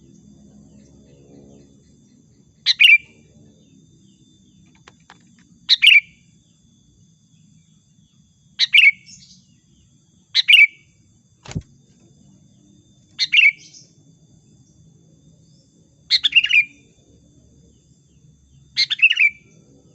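Sooty-headed bulbul (kutilang) giving short chirping calls, seven in all, about one every two and a half to three seconds, which the uploader presents as a female calling a male. A single sharp click about halfway through.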